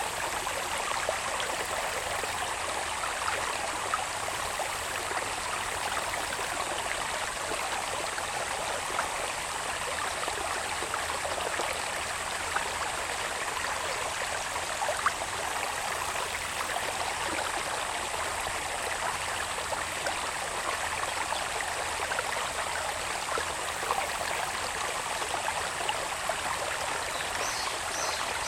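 Water babbling steadily along a small irrigation channel running down from the hills into the fields, with a steady high-pitched insect trill running above it.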